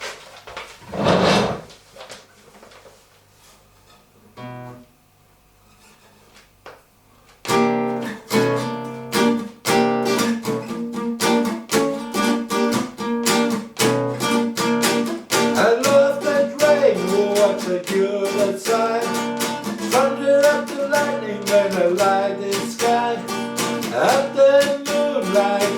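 Acoustic guitar playing the introduction of a song, strummed chords with a picked melody line, starting about seven and a half seconds in after a brief noise about a second in.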